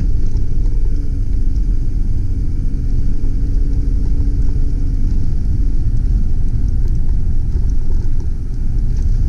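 A 2001 Mazda B4000 pickup being driven, its 4.0-litre V6 and the road making a steady low rumble, with a faint engine tone over the first half.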